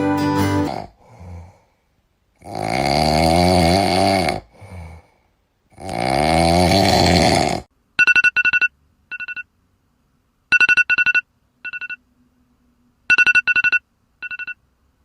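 Two long, loud snores with a faint short breath after each. Then an electronic alarm beeps: three rounds of quick high beeps, evenly spaced.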